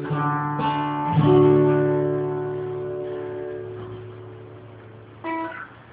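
Acoustic guitar playing the closing chords of a song: a final strum about a second in rings out and slowly fades. Near the end comes one brief, quieter plucked chord or harmonic.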